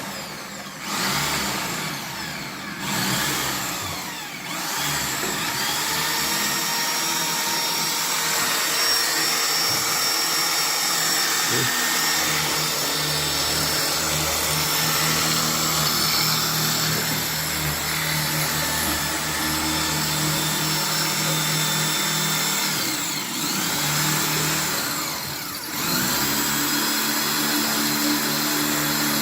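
Electric power drill running in long steady stretches, stopping briefly a few times and starting again, running at a lower pitch after it restarts near the end.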